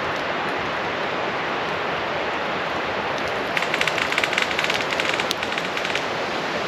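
Campfire crackling over a steady hiss, with a burst of rapid crackles and pops from about halfway through.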